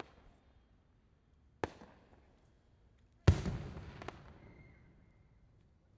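Aerial firework shells bursting: a sharp bang about one and a half seconds in, then a louder bang about three seconds in whose rumbling echo fades over about two seconds, with a smaller crack just after it.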